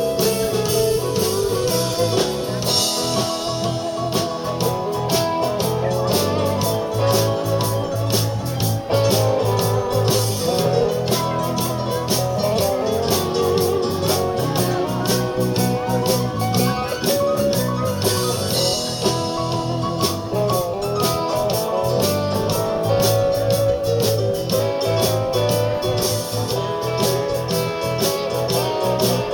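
Live blues band playing an instrumental break, with guitar leading over a steady drum beat.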